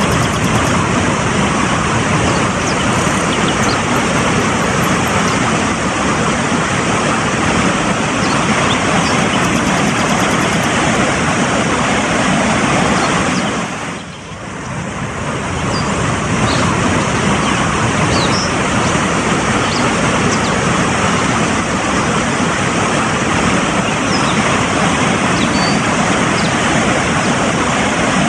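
Fast-flowing mountain stream: a dense, steady rush of water. The level dips briefly about halfway through, then swells back.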